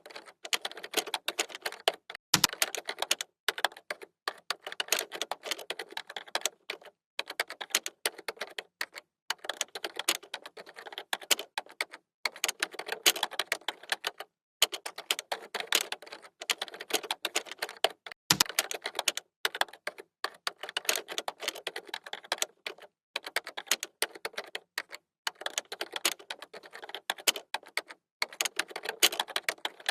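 Typing on a computer keyboard: quick runs of key clicks broken by brief pauses, with two heavier key strikes that land with a low thump, a few seconds in and again past the middle.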